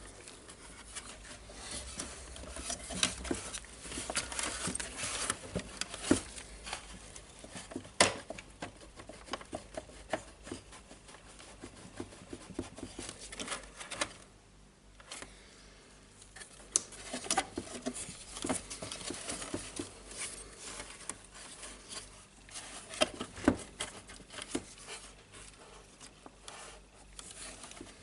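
Irregular clicking, tapping and scraping of hand tools against the plastic housing and parts of a DeWalt DC011 site radio as it is pried and worked apart by hand, with a sharper knock about eight seconds in and a brief lull around the middle.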